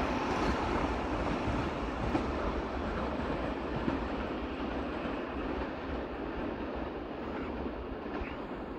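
A train rolling away along the rails, its wheels rumbling on the track, the noise slowly fading as it recedes.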